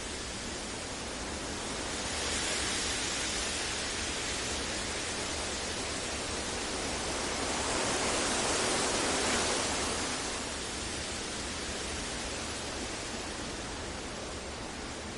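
Synthetic masking noise for sleep, an even hiss with no tones or clicks, rising and falling slowly in loudness with gentle swells about two seconds in and again around the middle.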